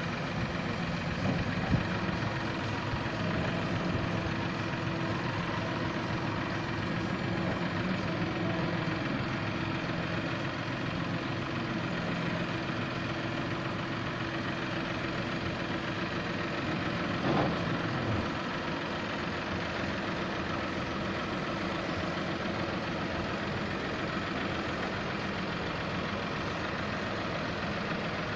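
Tractor engine running steadily at idle, with a sharp knock about two seconds in and a brief downward glide in pitch about 17 seconds in.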